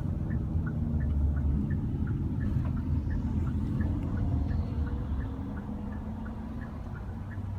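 Low engine rumble, as of a motor vehicle running, easing off about five seconds in, with faint quick ticks over it.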